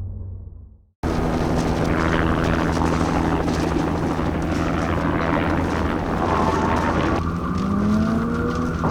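Car engine running hard under load with a steady rumble and loose gravel and tyre noise, after a brief drop-out about a second in; about seven seconds in the engine revs climb in a rising whine.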